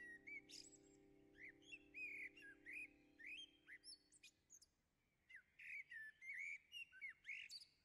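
Birds chirping and twittering in many short, irregular high calls. A soft, low held chord fades out about halfway through.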